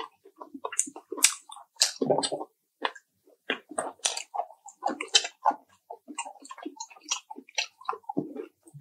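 A person chewing crispy fried chicken close to the microphone: many quick, irregular crunches and wet mouth smacks.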